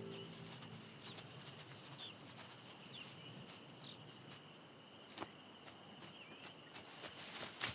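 Faint outdoor nature ambience: a steady high insect trill, with a few short bird chirps in the first half and scattered sharp clicks that come more often near the end.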